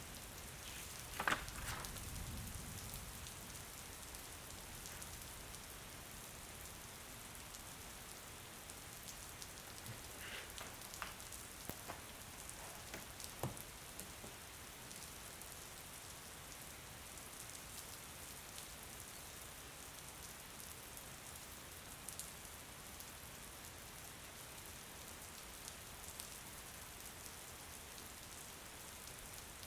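Steady rain falling, an even hiss, with a few sharp taps about a second in and again around ten to fourteen seconds in.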